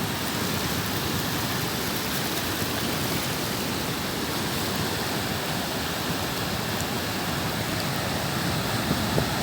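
Surf of a rough sea: a steady, even rush of breaking waves.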